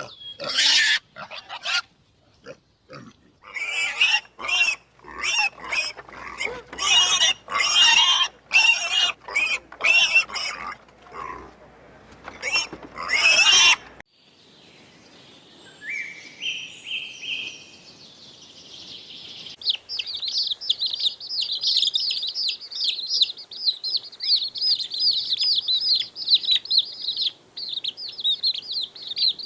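A run of loud, repeated animal calls for about the first half, then after a short quieter gap, many small birds chirping rapidly and continuously.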